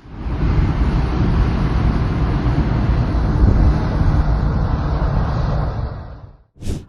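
Snowplow trucks running, a steady heavy rumble mixed with wind noise, cutting off suddenly near the end.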